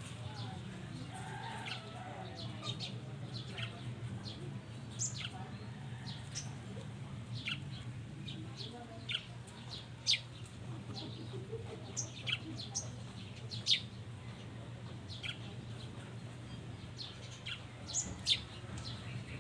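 Small birds chirping, many short sharp chirps scattered throughout, over a steady low hum.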